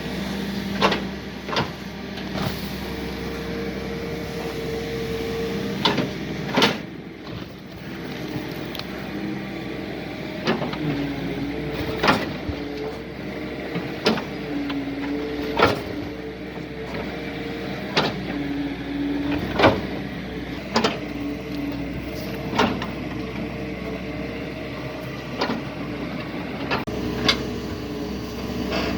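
Doosan DX140 hydraulic excavator's diesel engine running under working load, its note shifting up and down as the hydraulics work. Sharp knocks and clanks come every second or two, irregularly.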